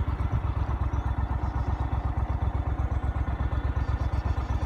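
Vehicle engine running steadily, with a fast, even low pulsing.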